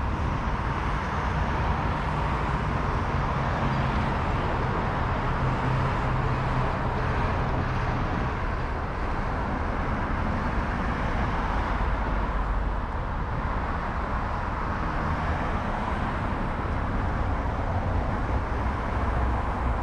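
Steady street noise heard from a moving bicycle: road traffic and the rush of riding, with no distinct events.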